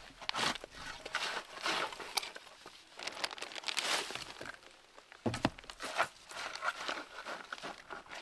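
Irregular rustling and crinkling, broken by many small sharp crackles.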